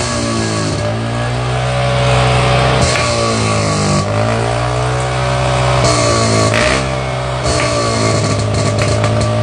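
Electric exhaust-sound simulator playing a revving motorcycle exhaust, its engine note rising and falling over and over above a steady low hum.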